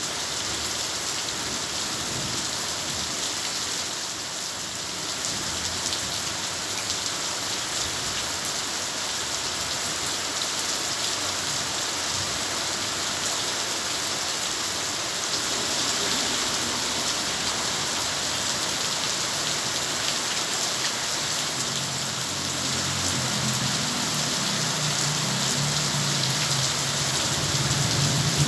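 Heavy rain falling steadily, a dense even patter. In the last several seconds a low rumble builds up beneath it.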